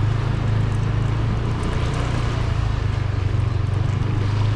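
Steady low engine hum with street noise, running evenly throughout.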